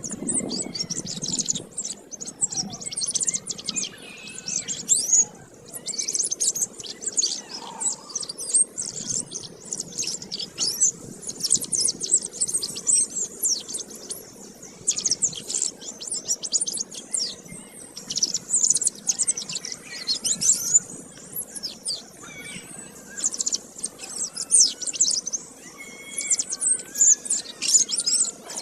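Domestic canary singing a long, fast, warbling song of rapid high chirps and trills, broken by brief pauses every few seconds.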